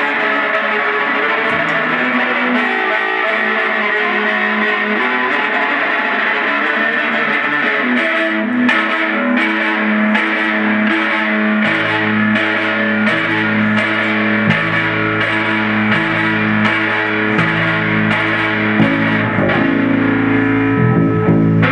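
Distorted solo on an electric string instrument through effects pedals: sustained, heavily overdriven notes, with a low repeating line of notes joining about halfway through.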